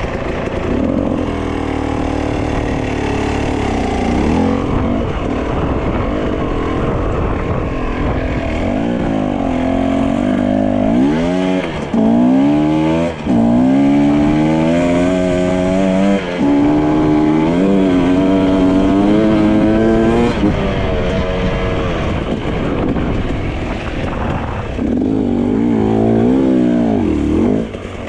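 Dirt bike engine under way, revving up and dropping back repeatedly as the rider accelerates and shifts gears, with a steady rush of noise beneath it.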